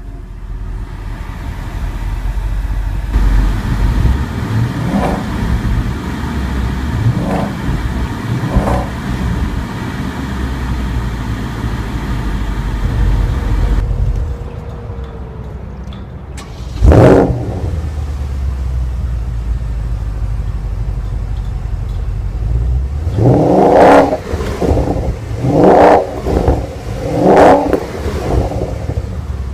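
Porsche Panamera GTS's 4.8-litre naturally aspirated V8 running just after start-up, idling with a few short throttle blips, one sharp rev about halfway through and three strong revs near the end.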